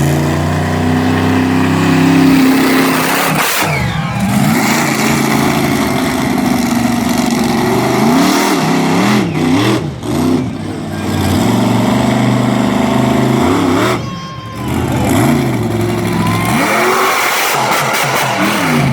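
Monster truck engine revving hard, its pitch swinging up and down in repeated blips between stretches of steady high running, with a brief drop in level about two-thirds of the way through.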